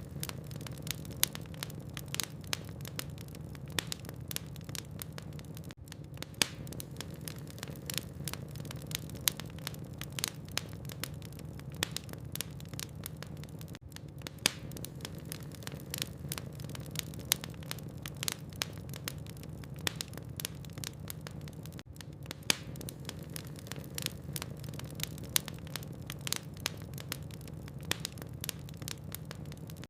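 Wood logs burning in a fireplace, crackling with dense, irregular pops and snaps over a steady low hum.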